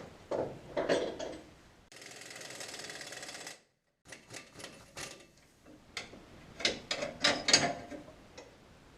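Metal parts clanking and knocking as they are handled. About two seconds in, a power tool buzzes with a rapid rhythm for under two seconds and cuts off suddenly.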